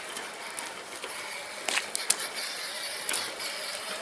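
Whirring of a child's battery-powered ride-on toy motorcycle's electric motor and gears, with a few sharp clicks or knocks in the middle.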